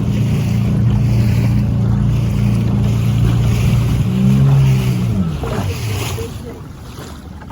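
Outboard motor pushing a small skiff under way at speed, a steady engine note over rushing wind and water. About four seconds in its pitch rises briefly, then it drops and fades as the throttle comes back.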